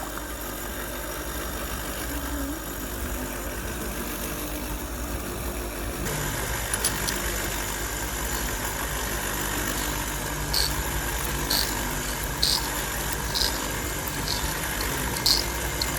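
A machine running with a steady low hum. From about ten seconds in, a short sharp click comes roughly once a second.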